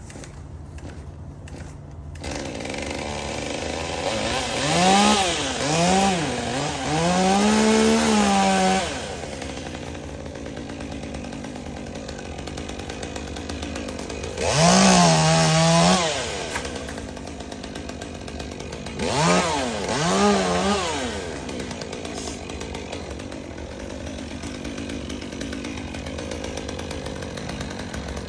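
Chainsaw engine comes in about two seconds in and runs at idle. It is revved up in three spells: a long one with the revs rising and falling several times, then two shorter bursts. It drops back to idle between them.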